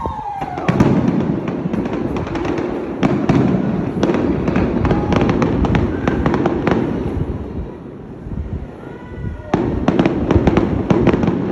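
A fireworks display going off: a dense run of bangs and crackles from bursting shells, easing for a couple of seconds near the end before a fresh flurry.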